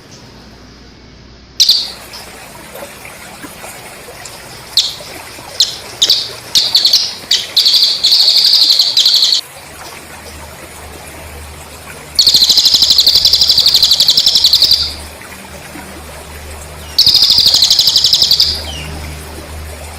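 A cililin bird singing, mixed with crickets: a string of sharp high chirps for the first half, then two long, rapid trills of a few seconds each.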